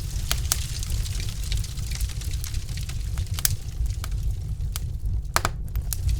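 Wood fire crackling in a fireplace: irregular sharp pops and snaps from the burning logs over a steady low rumble of the flames, with a few louder pops near the end.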